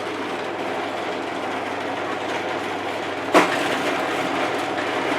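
Scheppach DP16VLS belt-driven bench drill running with a steady hum. About three and a half seconds in there is a sharp knock, and the running sound is a little louder after it.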